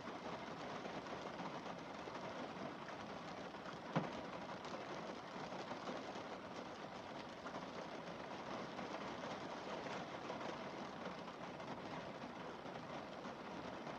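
Rain falling steadily on a car windscreen, a continuous even patter, with one sharp tap about four seconds in.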